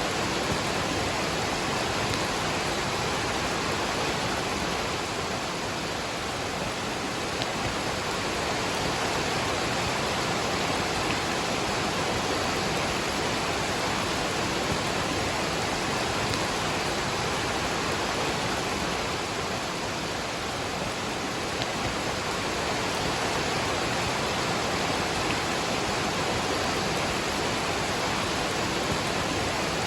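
Waterfall and rain: a steady, unbroken rush of falling water with no change in level.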